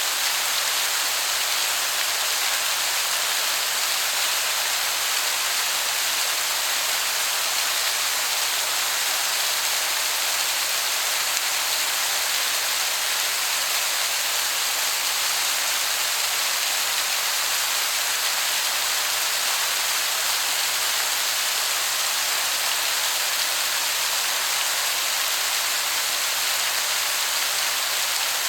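Waterfall making a steady, even hiss of falling water that sounds like heavy rain.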